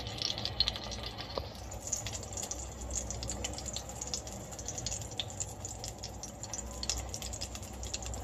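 Chicken shami kabab patties frying in hot oil in a stainless steel pan: a steady crackling sizzle that grows louder about two seconds in.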